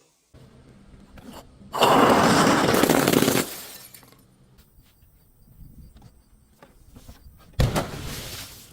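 Glass breaking and crunching: a long, loud shattering crunch about two seconds in that lasts under two seconds and then fades, and a second sharp crash near the end.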